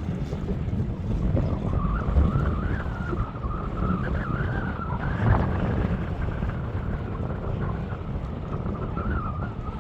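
Strong gusting wind buffeting the microphone, a heavy uneven rumble, with a wavering whistle-like tone running above it from about a second in.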